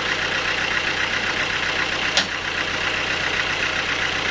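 Sawmill machinery running steadily with a fast, even pulsing, and a single sharp knock about two seconds in.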